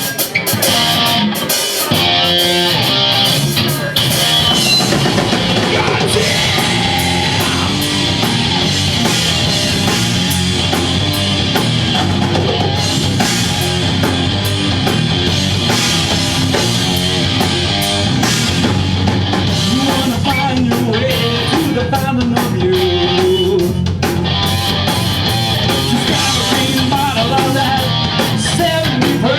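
Live rock band playing loud, distorted electric guitars with bass and a drum kit driving a steady beat, an instrumental stretch without vocals.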